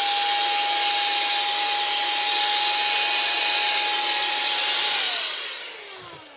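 Electric air duster running at full speed, a steady motor whine over a rush of blown air, then winding down in pitch and fading about five seconds in.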